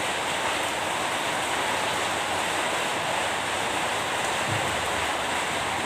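Steady rain, an unbroken even hiss of falling water.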